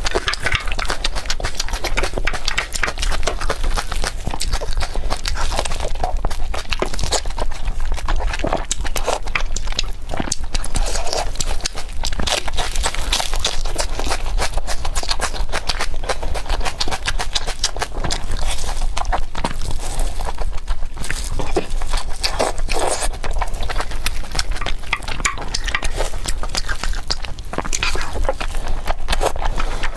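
A person eating close to the microphone: chewing and biting, with many small clicks.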